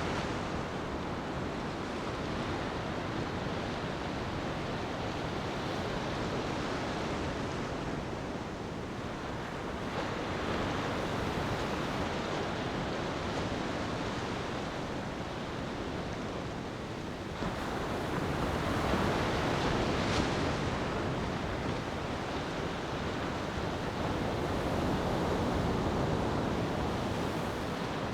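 Ocean waves washing onto a beach, a steady surf hiss that swells and eases in slow surges every several seconds.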